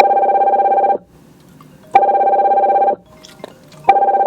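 A telephone ringing: three trilling rings of about a second each, roughly two seconds apart.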